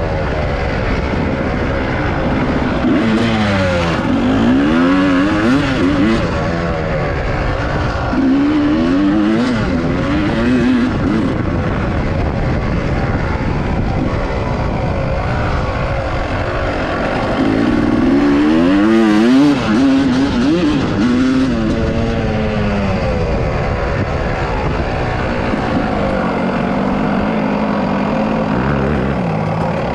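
Dirt bike engine revving up and down continually as it is ridden over trail terrain, its pitch rising and falling every second or two, busiest twice in the stretch.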